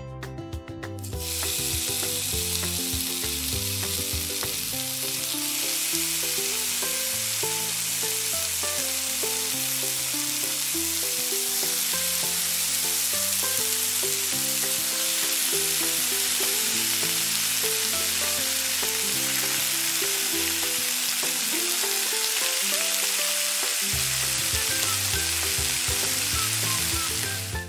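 Bok choy frying in a miniature pan, a steady loud sizzle that starts about a second in, with soft background music underneath.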